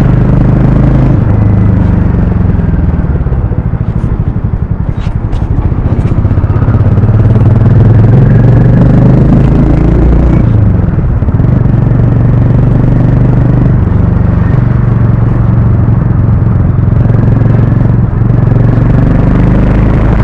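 Harley-Davidson X440's single-cylinder engine and exhaust under way, the engine note rising and falling with the throttle. It eases off about four seconds in, builds again, and briefly drops about ten seconds in, as at a gear change.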